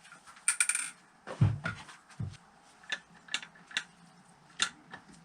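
Small metal engine parts clinking as they are handled on the bench: a short clatter about half a second in, then several separate sharp clicks.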